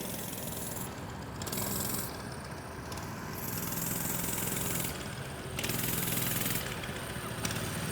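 Small single-cylinder engine of a mini bike running at low speed, its note swelling and easing off every second or so.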